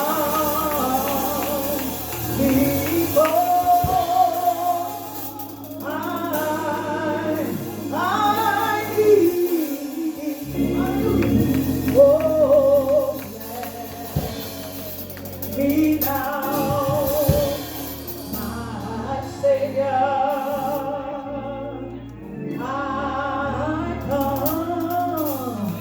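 Gospel singing with instrumental accompaniment: a solo voice sings in phrases of a few seconds with a wide vibrato over steady low accompanying notes.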